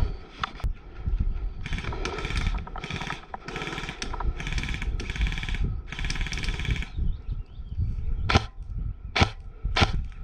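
Airsoft electric rifle firing about half a dozen short bursts, its gearbox whirring through each, followed by three sharp single snaps near the end.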